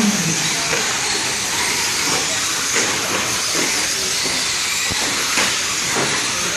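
Radio-controlled electric short course trucks running on the track: a steady high hiss of motors and tyres, with a few faint ticks.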